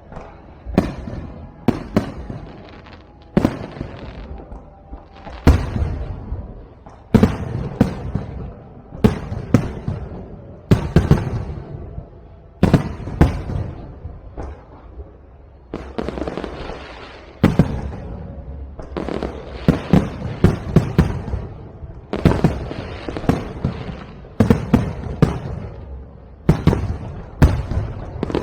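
Aerial fireworks shells bursting overhead: a run of loud bangs every second or two, some in quick clusters, each with a rumbling echo and crackle trailing after it.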